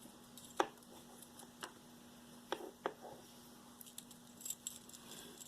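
Metal jewelry being handled: a few separate light clicks and taps as pieces knock together, with fainter ticks near the end.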